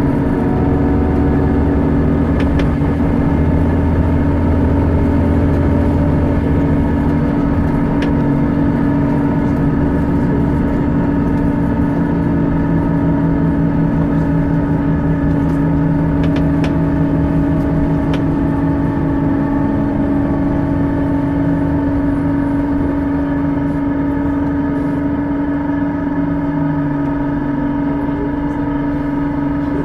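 A bus running with a steady whine held at one pitch over a deeper drone; the lowest hum drops out about seven seconds in and a lower tone shifts near the end. This is the unusual noise the bus is making.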